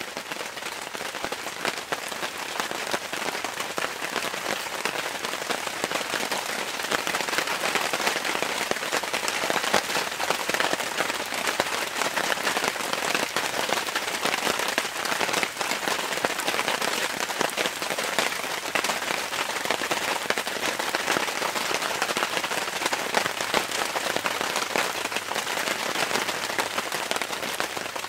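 Steady heavy rain, a dense patter of drops, growing somewhat heavier several seconds in.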